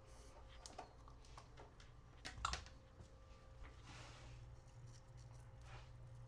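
Near silence with faint scattered clicks and taps of small parts being handled, the loudest about two and a half seconds in, over a low steady hum.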